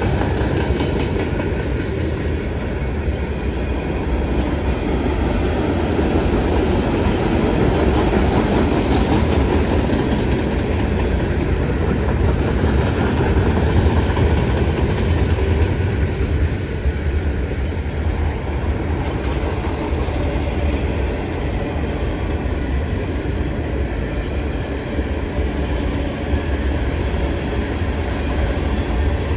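A train passing on the tracks, its railroad cars rolling by in a steady rumble throughout.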